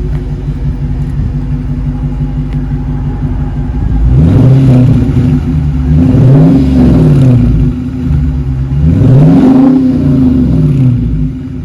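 Dodge Charger R/T's HEMI V8 idling, then revved three times, each rev climbing in pitch and falling back to idle.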